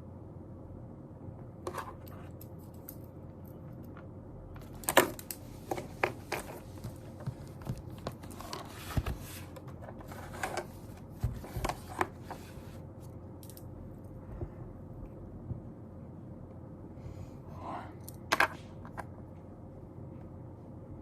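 Scattered small clicks, taps and rustles of someone working at a desk, busiest in the middle, over a steady low hiss of room noise.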